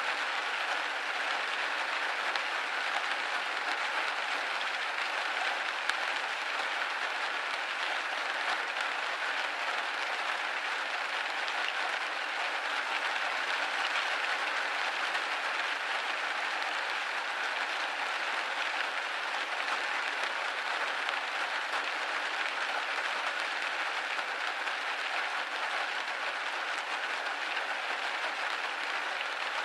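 Steady rain hitting a window pane: an even, dense hiss of drops with no low rumble and no single louder drop or gust.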